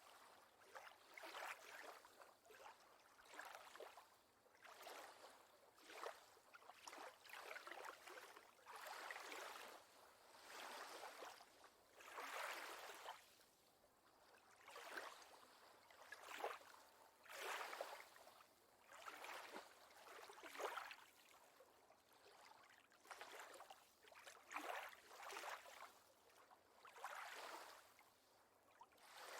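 Faint lake water lapping at a shore in small, irregular swells, one every second or two.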